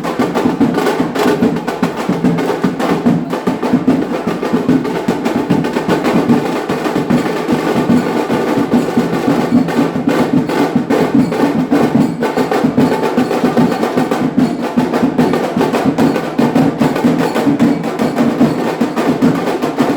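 Indian wedding band baaja playing, with fast, busy drumming running steadily throughout.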